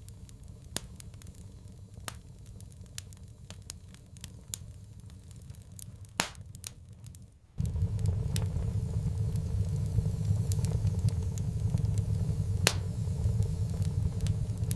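Wood fire in a fireplace crackling, with scattered sharp pops and two louder snaps. About halfway through, a steady low rumble cuts in abruptly under the crackling.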